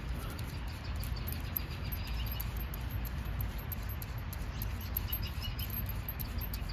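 Quiet outdoor background: faint, rapid high-pitched chirping over a steady low rumble, with scattered light clicks.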